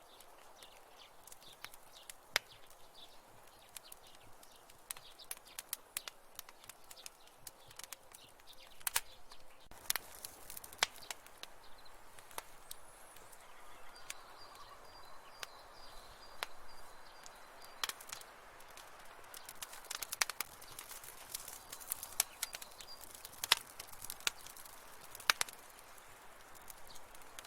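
Wood fire in a fireplace crackling: irregular sharp pops and snaps over a soft hiss, with a faint thin high tone through the middle part.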